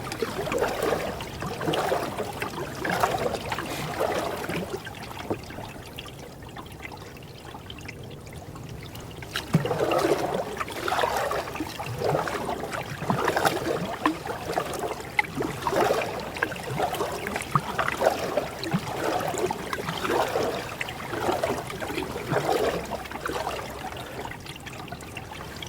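Canoe paddle strokes in the water: a swish and trickle of water with each stroke, about a second apart, easing off for a few seconds partway through.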